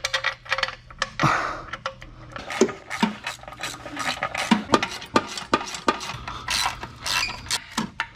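Irregular metallic clicks, knocks and scrapes of hand tools and parts as a transmission is worked into place against the engine's bell housing.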